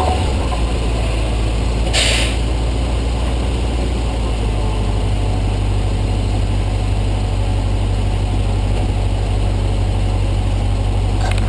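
Tow truck engine running steadily, a low drone, with a brief hiss about two seconds in.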